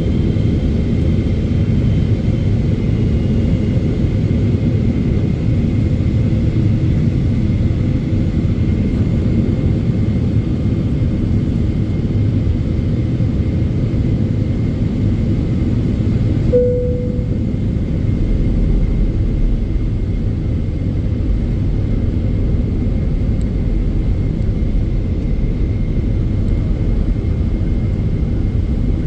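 Steady cabin roar of a Boeing 777-300ER in flight, deep and even, with a faint steady whine above it. About two-thirds of the way through a brief single tone sounds, and the deep rumble grows a little heavier after it.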